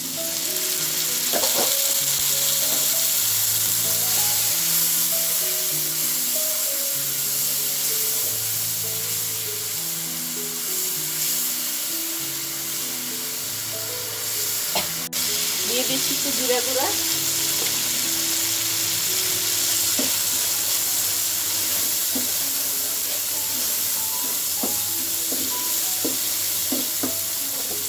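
Onions, green chillies and ground spices sizzling in hot oil with a little water in a frying pan, the masala being cooked down while a spatula stirs and scrapes it now and then. A soft background melody plays under the sizzling.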